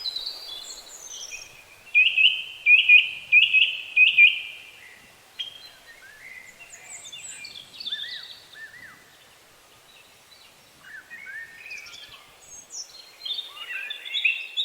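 Several birds singing and chirping over faint background hiss, with one bird's loud repeated phrase about two seconds in and a burst of overlapping chirps near the end.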